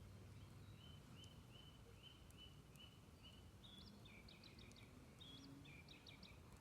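A songbird singing faintly: a run of about eight evenly spaced, identical short notes, then from about halfway a quicker, more varied phrase of rising notes, over a low steady background rumble.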